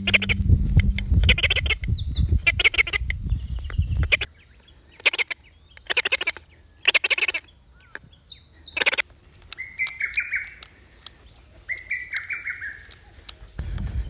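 Wild birds calling: quick high chirps, then two short runs of falling notes in the second half. Earlier, a low rumbling noise with sharp clicks and a few brief loud noise bursts.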